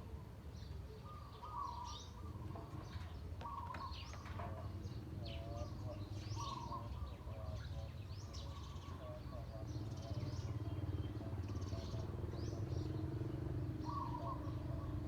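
Small birds chirping and twittering again and again over a steady low background hum.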